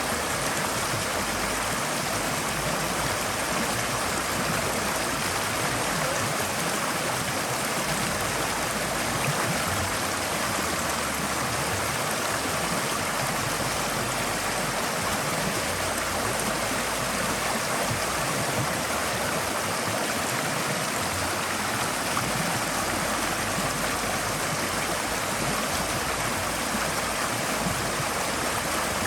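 Forest stream flowing steadily over rocks: a continuous, even rush and burble of water with no breaks.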